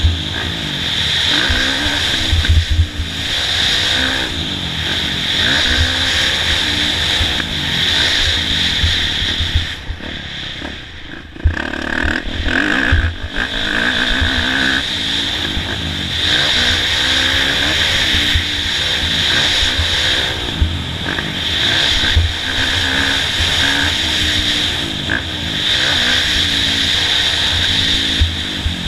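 Kawasaki KX450F motocross bike's four-stroke single-cylinder engine revving up and down as it is ridden hard on the track. About ten seconds in the throttle closes and the engine falls quiet for a moment, then it picks up again.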